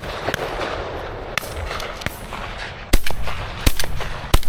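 Three shotgun shots in quick succession, the first about three seconds in and the others less than a second apart, after a few fainter, more distant pops.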